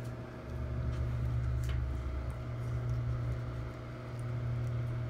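Steady low hum of a running household appliance, with a faint click or two.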